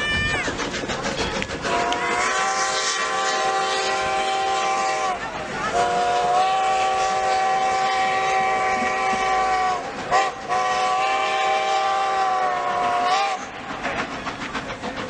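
Steam locomotive whistle blowing three long blasts, each a steady chord of several tones that sags slightly in pitch as it cuts off. Train running noise underneath.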